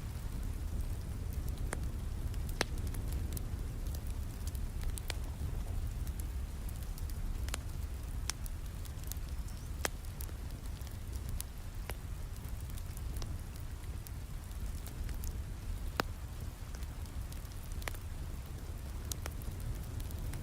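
Steady rain with a low rumble, mixed with a wood fire crackling: sharp pops come at irregular intervals, every second or two.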